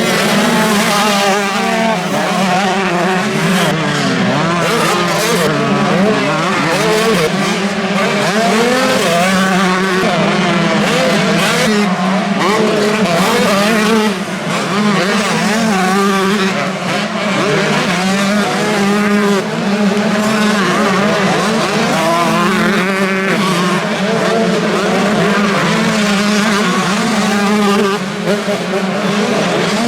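Several motocross bikes racing, their engines revving up and down through the gears, the sounds overlapping continuously.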